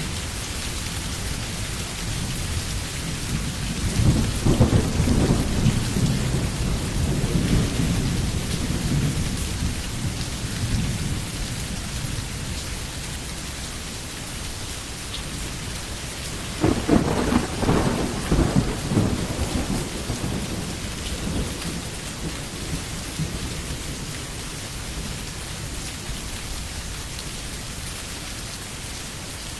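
Steady rain falling, with two low rolls of thunder: the first builds about four seconds in and rumbles away over several seconds, the second cracks in more sharply near the middle and fades within a few seconds.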